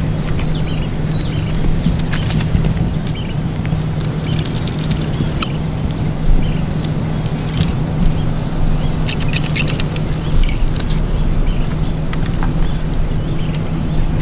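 A bird calling a short high chirp over and over, about two or three times a second, over a steady low hum, with a few light clicks.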